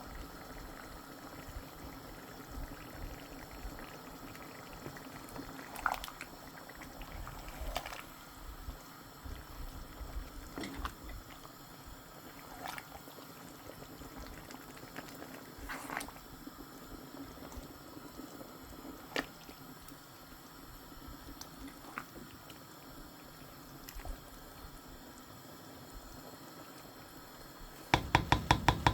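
Egusi and afang soup simmering in a covered pot: a low, steady bubbling with a scattered sharp pop every few seconds. Near the end comes a quick run of about eight loud knocks.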